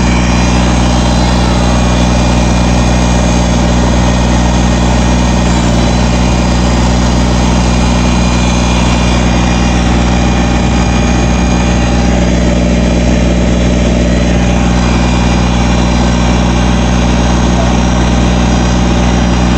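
Backhoe's diesel engine running loud and steady at a constant speed.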